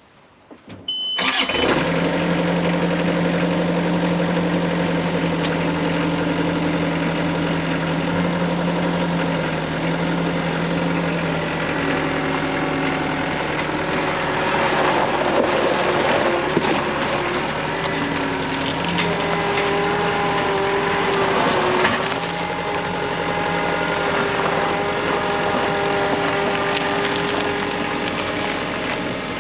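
An engine starts about a second in and keeps running, with its pitch shifting several times in the middle stretch.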